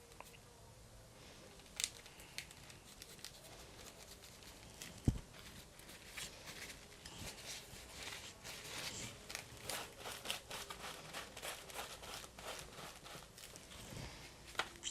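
Light, fast scratching and tapping of art tools and paint on a paper journal page, sparse at first and busier after about six seconds, with one dull knock about five seconds in.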